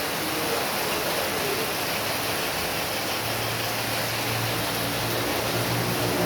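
Heavy rain falling steadily in an even hiss. About halfway through, the low hum of an approaching vehicle's engine comes in underneath and grows.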